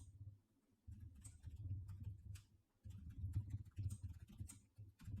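Faint scattered clicks over a low rumble that comes and goes in stretches of about a second.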